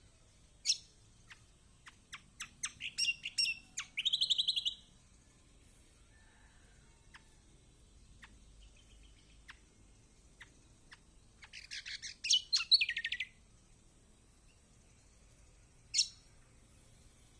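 Kecial kombok (yellow white-eye) calling: bursts of sharp, high chirps and a short buzzy trill, with quieter gaps of scattered faint ticks. A second dense burst comes in the middle, and a single sharp call near the end.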